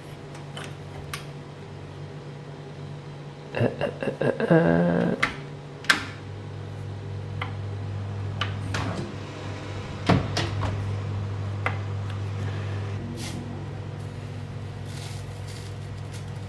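Kitchen handling sounds: clicks and knocks of cupboards and items being moved, loudest around four to five seconds in. An electric kitchen appliance then starts humming steadily about six seconds in and keeps running, its hum shifting near the end.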